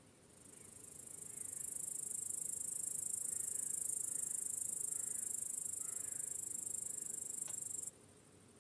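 High-pitched insect trill swelling up over about a second, holding steady, then cutting off suddenly near the end, over a faint steady background of crickets chirping.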